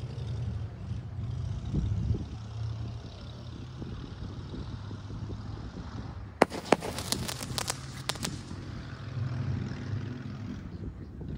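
Consumer fireworks crackling: a quick string of sharp pops and cracks starting about six seconds in and lasting about two seconds, over a steady low rumble.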